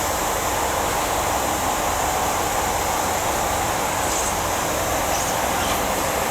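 Steady train noise at a railway station: an even rushing hiss with a constant mid-pitched hum, and a few faint short high chirps in the second half.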